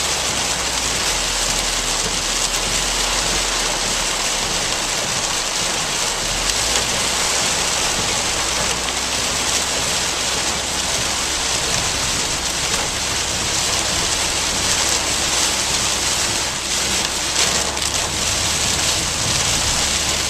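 Heavy rain pelting a car, heard from inside the cabin as a steady, loud hiss over a low, steady hum from the moving car.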